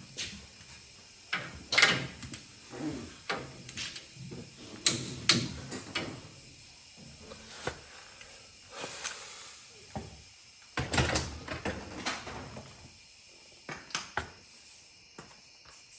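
A run of irregular knocks, clicks and clatters, like parts or tools being handled, with a few louder knocks about two, five and eleven seconds in.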